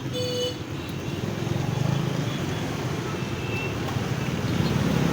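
Motorbike traffic running steadily in a jammed street, with a brief high beep about at the start.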